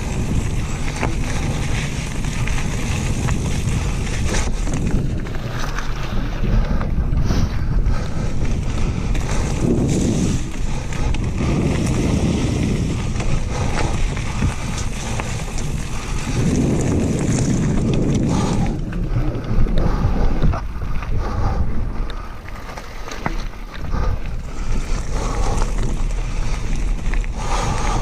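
Wind rumbling on the microphone over a mountain bike riding a trail, with scattered short knocks and rattles.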